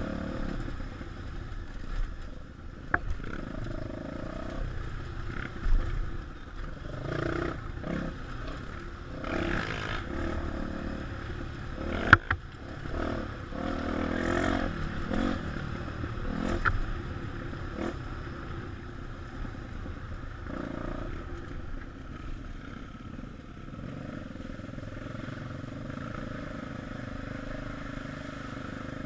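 Single-cylinder trail motorcycle engine running on a dirt trail ride, rising and falling with the throttle, with a few sharp knocks and clatter from the rough ground. The loudest knock comes about twelve seconds in.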